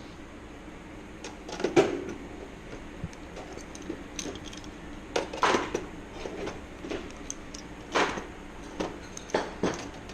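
Sporadic sharp metallic clicks and clinks of clecos, rivets and hand tools against a sheet-aluminium flaperon skin during riveting, about six distinct knocks spread irregularly with quieter handling noise between.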